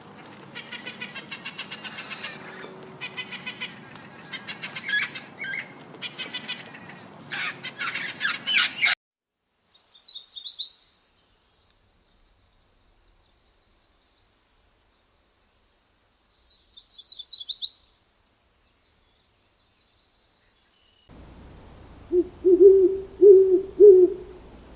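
A run of bird sounds. First a dense, rapid high-pitched chirping. Then two short high trills from a small bird with near silence between them, and near the end an owl hooting about four times.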